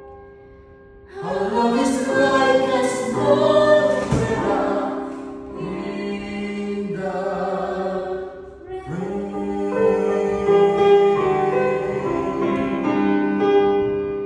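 Music: voices holding long sung notes with vibrato over instrumental accompaniment, in a few drawn-out phrases starting about a second in.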